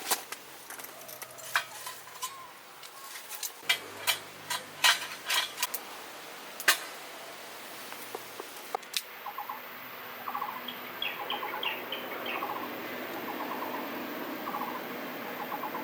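Cookware and utensils clinking and knocking in sharp, irregular taps for about nine seconds; then birds chirping in short repeated trills.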